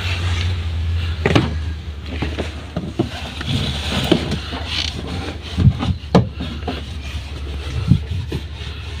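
Scattered short knocks and clicks of parts and tools being handled, over a steady low hum that is strongest in the first second or so.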